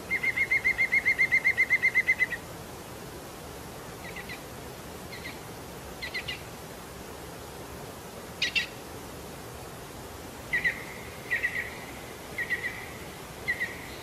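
A bird calling: a fast trill of evenly repeated notes, about eight a second, for just over two seconds, then short, separate calls every second or so at the same pitch, over a steady hiss.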